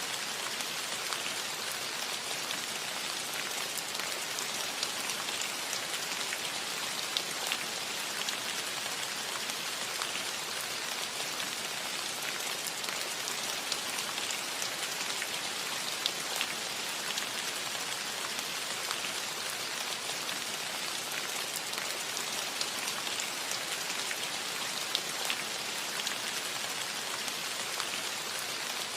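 Steady rain falling on a cottage roof: an even hiss of rainfall dotted with many small drop taps, a few of them louder.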